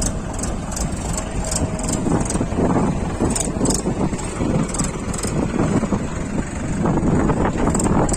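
A JCB 3DX backhoe loader's diesel engine running steadily, with short high-pitched ticks repeating every half second or so.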